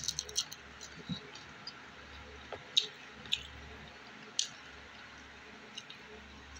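A man chewing with his mouth close to the microphone while eating rice and fish by hand: wet mouth clicks and lip smacks, a handful of short sharp ones, clustered at the start and a few more spaced out later.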